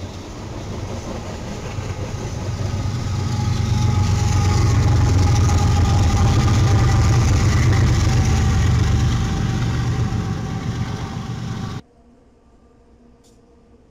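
A freight train of covered hopper cars passing close, with a BNSF diesel locomotive going by: the engine's steady low hum and whining tones swell to a loud peak mid-way. The sound cuts off suddenly near the end.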